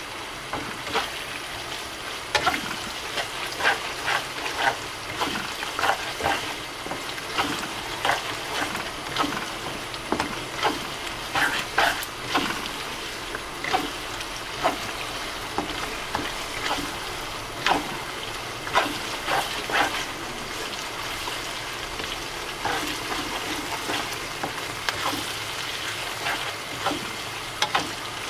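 Blended dried-chili paste with onions sizzling in a wok as it is sautéed, with the spatula scraping and clicking against the pan at irregular moments as it is stirred.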